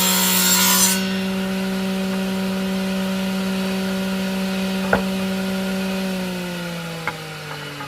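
Electric power saw cutting through wood until about a second in, then running free with a steady whine, and spinning down with falling pitch from about six seconds. A sharp tap sounds near the middle.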